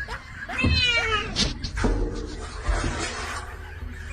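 A cat meowing, with one drawn-out call starting about half a second in.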